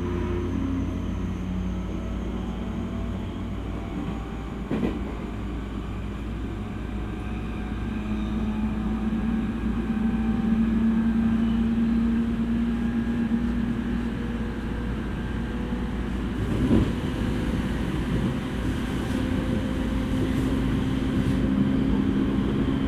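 Onboard running sound of an E231 series electric train: wheels rumbling on the rail under a motor hum whose pitch rises slowly as the train picks up speed. Two sharp knocks from the track, about five seconds in and again past the middle.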